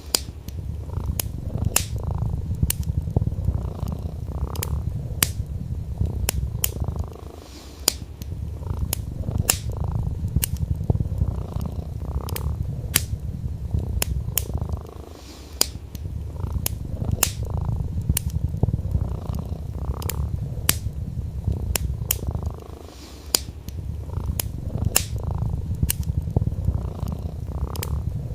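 A cat purring steadily, with three short pauses about every seven or eight seconds, over a wood fire crackling with frequent sharp pops.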